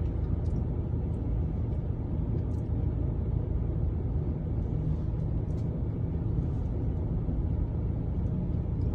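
A steady low rumble with a few faint clicks and ticks over it.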